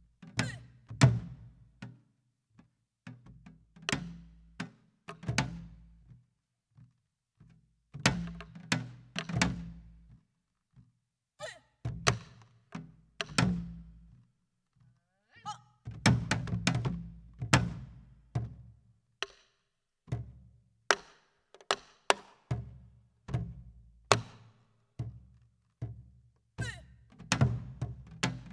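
Buk, the Korean barrel drum of pansori, played in a slow, irregular rhythm: deep thuds mixed with sharp cracks, with short pauses between groups of strokes.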